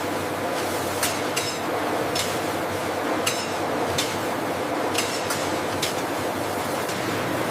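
Processing-line machinery running with a steady hum, with light metallic clicks and clinks at irregular moments, roughly one every half second to a second.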